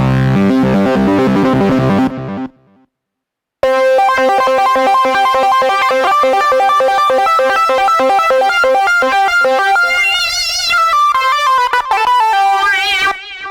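Sequential OB-6 analog polyphonic synthesizer playing demo patches. A chord rings and fades over the first couple of seconds and then stops. About three and a half seconds in, a fast, evenly repeating sequenced pattern of notes starts, and wobbling, pitch-modulated tones come in near the end.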